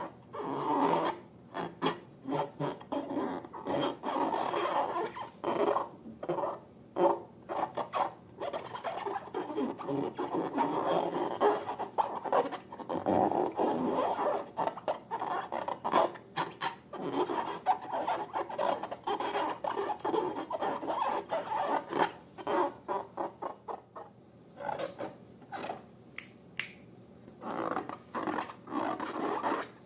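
Slime being worked by hand: a dense, irregular run of short sticky clicks and crackles over a rubbing sound, thinning out briefly near the end.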